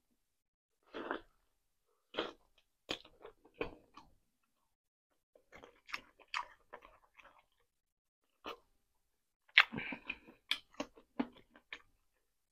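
A person eating rotisserie chicken by hand, with close-miked chewing and biting sounds. The sounds come in short scattered bursts of mouth clicks with silent gaps between them, and are busiest and loudest in the last few seconds.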